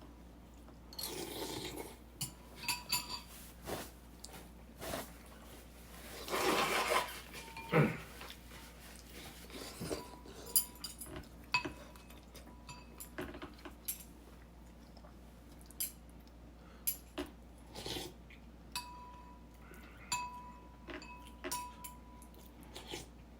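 Dishes and cutlery clinking and scraping: a string of sharp clicks, several of them ringing briefly, with a longer scrape about six seconds in.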